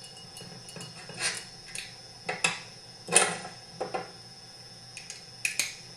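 Metal chainsaw parts and tools clinking and knocking on the bench during reassembly at the flywheel end of the crankshaft: about ten sharp clinks in small clusters, the loudest about three seconds in.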